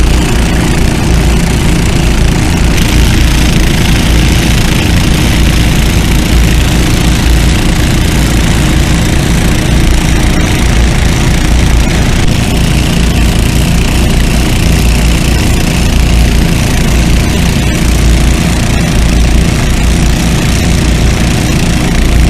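Several small engine-driven water pumps running together at steady speed, pumping lake water into a water-filled cofferdam to fill it.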